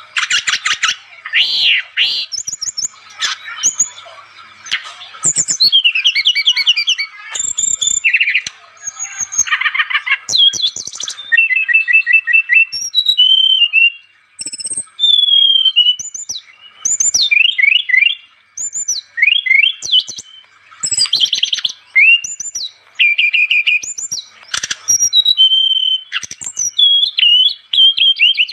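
Brown-chested jungle flycatcher (sikatan rimba dada coklat) singing vigorously: a fast, varied run of high whistles, down-slurred notes and rapid rattling note series with only brief pauses.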